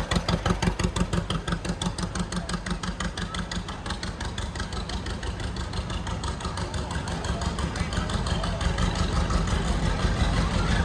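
An engine idling with an even chugging beat of about six pulses a second, which softens about four seconds in into a steadier running sound.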